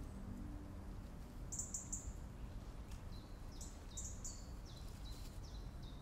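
Small bird chirping: short, high chirps that slur downward in pitch, a few about one and a half seconds in, then a quicker run of them in the second half, over low background noise.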